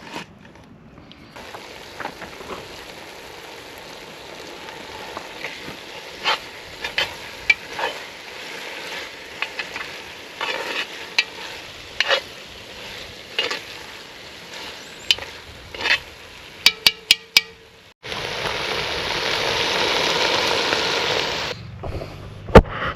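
Pork cooking in a cast-iron Dutch oven, sizzling steadily with frequent sharp pops of spitting fat. Near the end the sizzle turns louder and denser for a few seconds, then stops abruptly.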